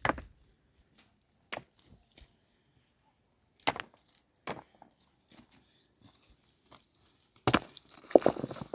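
Sharp knocks at irregular intervals, a few seconds apart, with a quick flurry of knocks near the end.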